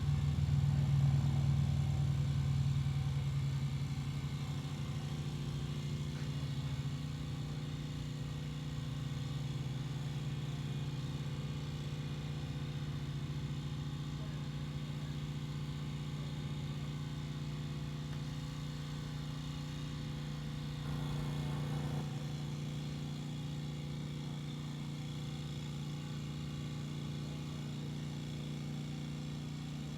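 Pressure washer running with a steady motor hum, a little louder in the first few seconds and rising briefly about two-thirds of the way through.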